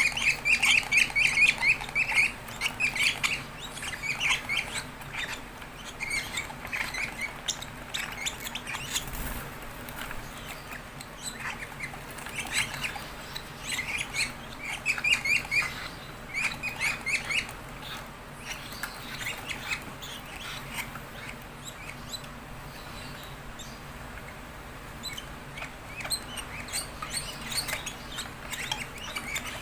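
Fischer's lovebirds chirping in rapid runs of short high calls, in bouts of a few seconds with pauses between.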